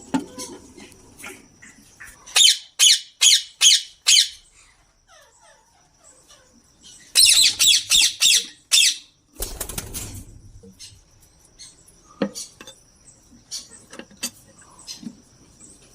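Ringneck parakeets squawking: a run of five harsh shrieks about two and a half seconds in, then a faster burst of calls around seven seconds in. A brief rustle follows, then scattered light clicks.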